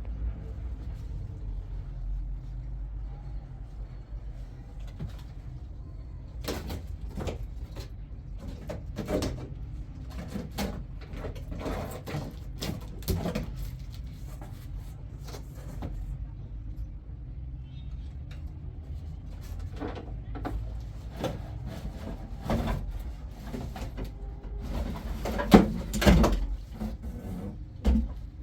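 Irregular knocks and clatter over a steady low rumble, starting about six seconds in, with the loudest knocks near the end.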